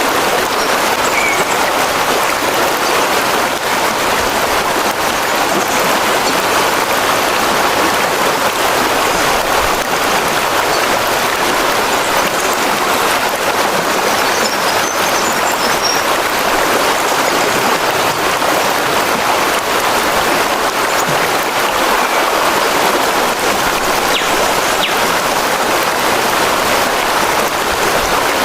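Steady rushing of running water, an even, unbroken noise. A few faint high chirps come through around the middle.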